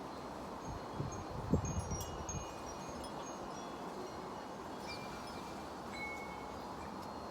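Wind chimes ringing in gusty wind: a cluster of short, overlapping bell-like tones about one and a half to three seconds in, then a few single tones later. A wind gust buffets the microphone with a low rumble where the chimes are busiest.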